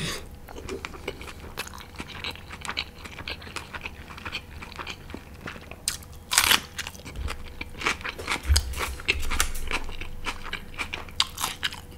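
Close-up chewing and crunching of a big mouthful of mutton curry with rice: irregular crackly mouth sounds, with a louder crunch about six and a half seconds in.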